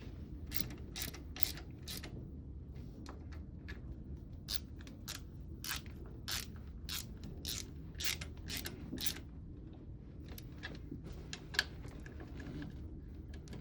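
Small hand ratchet clicking in short runs as the small bolts of a marine raw-water pump faceplate are snugged down, the clicks coming thick at first and thinning out near the end.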